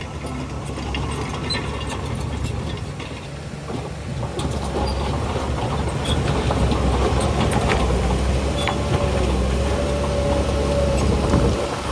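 Bulldozer's diesel engine working under load with scattered metallic clanks and rattles, growing louder about four seconds in, with a thin whine in the second half.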